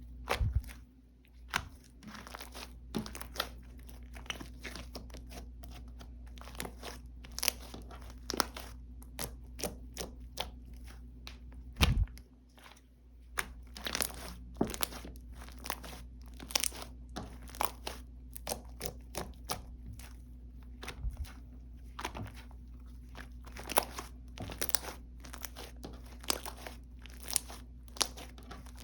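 Slime being squished, stretched and pressed by hand, making irregular sticky pops and crackling clicks, with a couple of louder knocks, once about half a second in and once about twelve seconds in.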